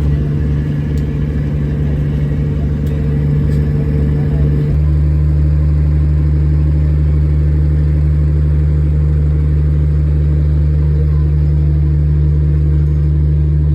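Motor vehicle driving steadily: a loud, continuous low drone of engine and road noise, which changes character about five seconds in and then holds steady.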